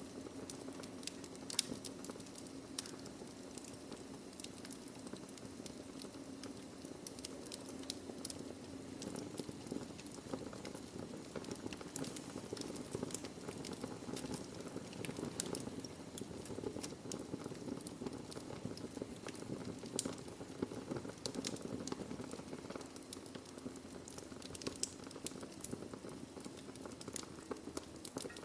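Wood logs burning in a fireplace, crackling steadily with frequent sharp pops over a low, steady rush of the fire.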